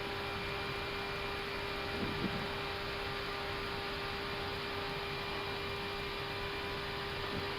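Steady flight-deck noise of an Airbus A319 in the climb: an even rush of air with a constant hum.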